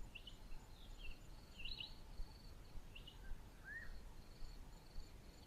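Faint bush ambience: a bird gives several short, high chirps and one lower slurred note about three and a half seconds in, over a steady, pulsing high insect trill.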